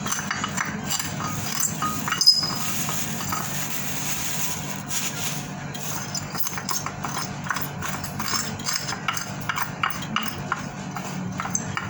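Pestle pounding and grinding charcoal in a mortar (ulekan), a run of quick, irregular knocks with one louder strike about two seconds in, as the charcoal is crushed to a fine powder.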